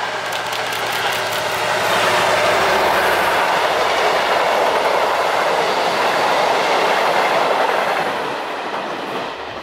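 Diesel-hauled passenger train going past close by, a Trenitalia D.445 diesel locomotive pulling a rake of coaches. The locomotive's engine hum gives way to the rolling noise of the coaches' wheels on the rails. The sound swells to a peak and fades away near the end.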